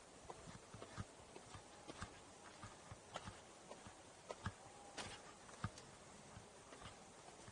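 Footsteps on a forest trail: irregular crunching and clicking underfoot, with a heavier step about once a second.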